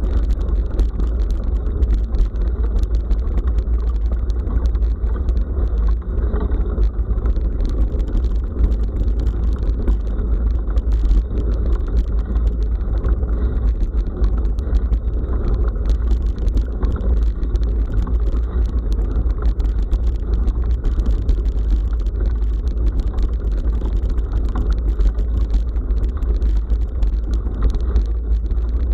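Bicycle riding over a forest dirt road, picked up by a bike-mounted action camera: a steady low wind and vibration rumble, with many small clicks and rattles from the bike and the rough track.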